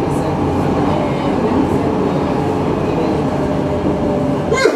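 Munich tram running between stops, heard from inside the car: a steady rumble of wheels on rails with a faint motor hum. A short high-pitched sound cuts in near the end.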